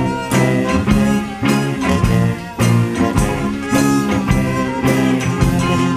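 Instrumental band music with a steady beat: the bluesy, vaudeville-style introduction of a song, with guitar and harmonica, before the singing comes in.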